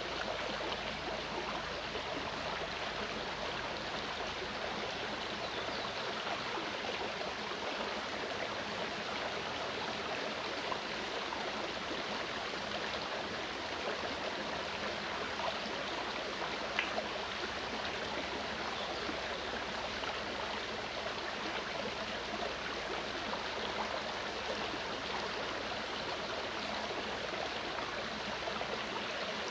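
Mountain stream running: a steady, even rush of flowing water with faint gurgles, and a few tiny splash-like ticks.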